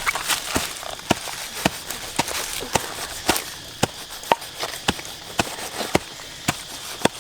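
Knife chopping on a cutting board in steady strokes, about two a second.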